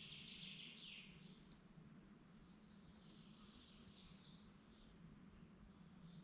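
A songbird singing two short phrases of quick, high repeated notes, one right at the start and one about three seconds in, over a faint steady low hum.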